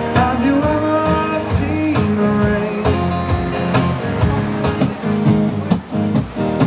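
Live band playing a song with guitar and a singing voice.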